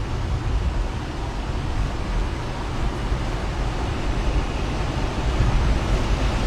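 Steady road and engine rumble with a hiss of wind heard from inside a moving car's cabin.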